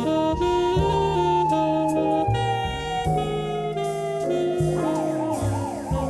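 Emergency vehicle siren over instrumental background music: a long wail that slowly falls in pitch, switching to a fast yelp about five seconds in.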